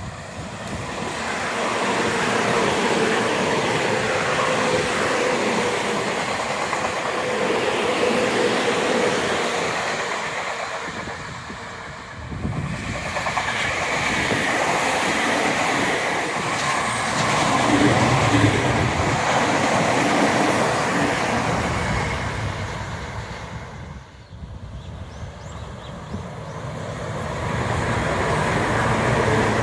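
Tobu Tojo Line electric trains passing: a steady rumble of wheels on rails with a faint humming tone. The sound drops off and builds again about twelve seconds and again about twenty-four seconds in.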